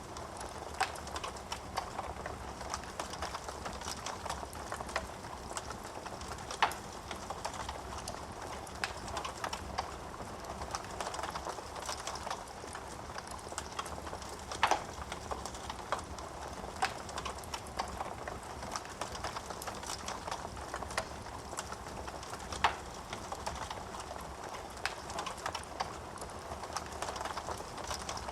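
Wood burning in a fireplace and crackling: a soft steady hiss with frequent small crackles and three louder pops spread through.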